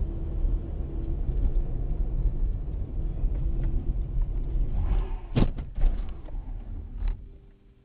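Heavy low rumble of a car driving, as picked up by a dashcam. Several sharp knocks come about five and a half seconds in, and one more near seven seconds, before the rumble fades out.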